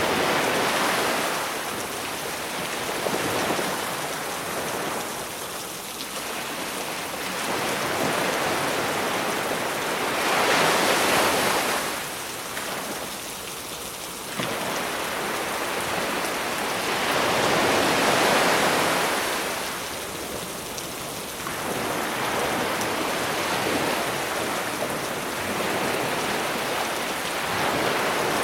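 Sea waves washing onto the shore, surging and receding every few seconds, over a steady hiss of rain.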